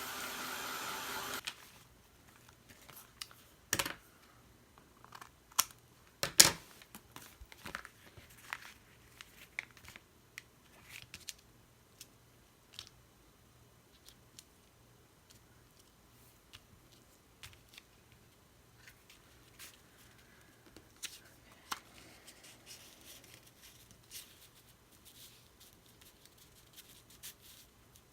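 A heat tool blowing briefly to dry wet gesso, cutting off about a second in. Then quiet handling of paper and craft materials: scattered taps, clicks and rustles, with two louder knocks.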